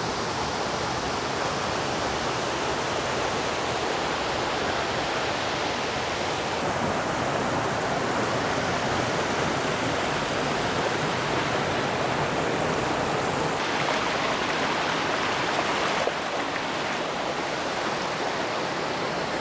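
Waterfall rushing: a steady roar of falling water pouring into a creek.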